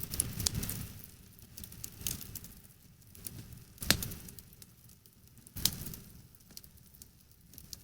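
Campfire crackling: a few sharp pops, the loudest about four seconds in and again just before six seconds. Under them is a low rumble that dies away after the first second or so.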